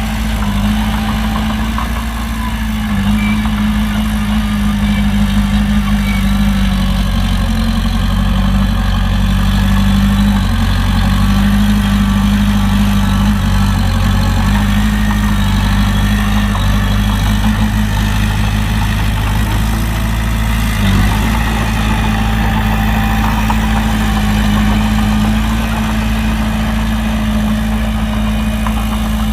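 Heavy diesel engine of an earthmoving machine running steadily at a low, even speed, with a brief dip about two-thirds of the way through.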